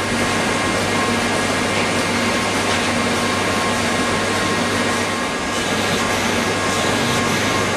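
Miniature model engine running steadily: a constant low hum under an even, loud hiss.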